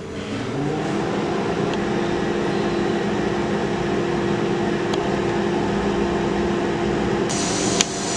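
Microwave oven running on convection bake at 170 °C, just started: a steady hum that comes up within the first second. A higher hiss joins near the end, followed by a sharp click.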